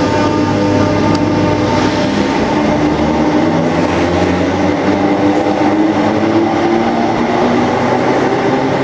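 Electric multiple-unit passenger train moving along an enclosed station platform: a steady loud rumble of wheels and running gear with a continuous motor hum.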